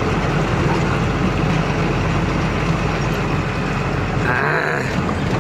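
A truck's engine running under way, heard from inside the cab, with the cab rattling and tyre noise over a rough unpaved stretch of road.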